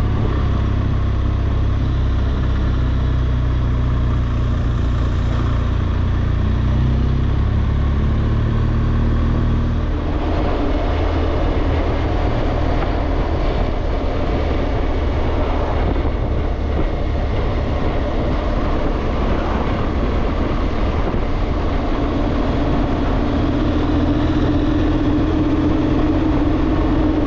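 BMW R1200GSA's boxer twin engine running under way, with wind and road noise. The engine note climbs a little, then the sound changes about ten seconds in, and a steady hum comes in near the end.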